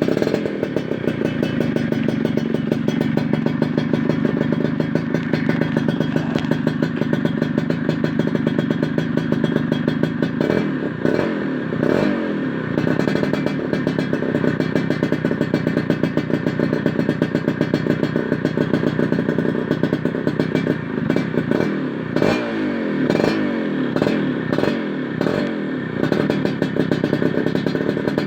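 Yamaha F1ZR's 110cc two-stroke single running through an RTX Racing aftermarket exhaust: it runs at a steady speed at first, then is revved up and back down several times, with a cluster of quick revs near the end.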